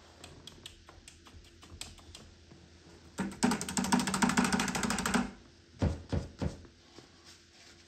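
A paintbrush scrubbed rapidly against a canvas, a fast run of dry clicks lasting about two seconds, followed by a few separate knocks.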